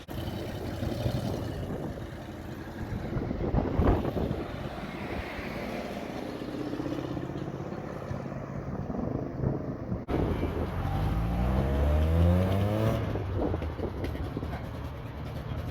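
Cars driving off with engines running, a brief loud peak about four seconds in; past the middle one car accelerates hard, its engine note climbing steeply for about two seconds, the loudest part.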